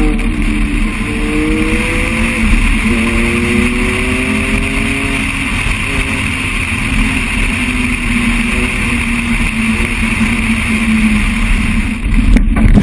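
Car engine accelerating through the gears: its pitch climbs, drops back at a shift about two and a half seconds in, and climbs again until about five seconds in, then holds a steadier drone. A steady rush of wind runs under it.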